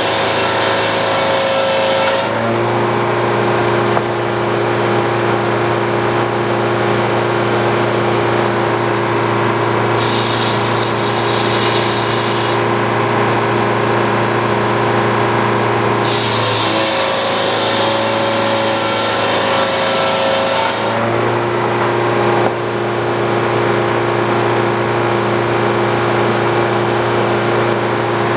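Old Frick sawmill running steadily, its circular head saw cutting a poplar log twice: once in the first couple of seconds and again from about the middle to two-thirds of the way through. Each cut adds a loud rasping hiss, and the power unit's pitch sags under the load before recovering.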